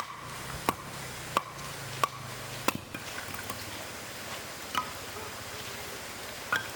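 Regular chopping strokes, about three every two seconds, each a sharp knock with a short ring. After five in a row they break off, and two more single strokes follow, well spaced.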